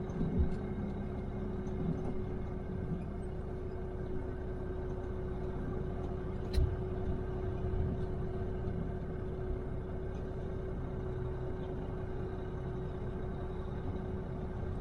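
Truck's diesel engine running steadily, heard from inside the cab as a low rumble with a steady hum, and one short click about halfway through.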